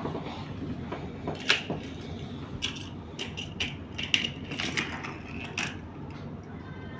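Plastic toy playset pieces clicking and clacking as they are handled, about ten sharp clicks over four seconds. A low steady rumble runs underneath.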